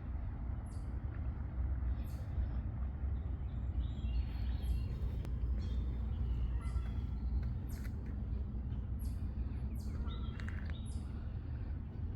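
Songbirds chirping outdoors, short high calls every second or two with a few lower calls mixed in, over a steady low rumble.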